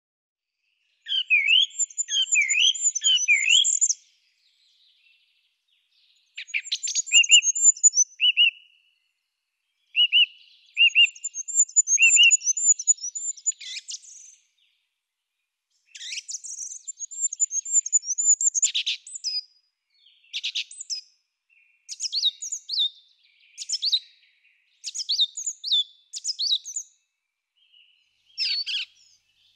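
Songbirds singing: high-pitched chirps and trills in phrases a few seconds long, separated by clean silent gaps, the phrases growing shorter and more frequent in the second half.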